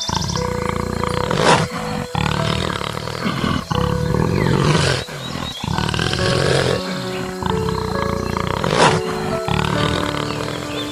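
Repeated rough animal roars or growls over background music, the loudest surges about 1.5, 5 and 9 seconds in.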